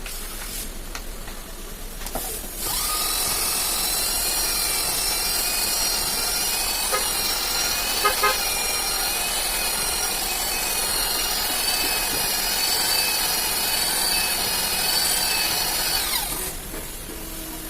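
A power tool running with a steady high-pitched whine for about fourteen seconds, starting about two and a half seconds in and stopping near the end, used in repairing an engine cylinder block.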